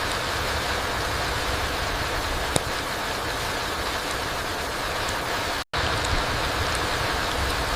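Steady rain falling through forest trees, an even hiss with a few single drip ticks. The sound cuts out completely for a split second about two thirds of the way through, then resumes.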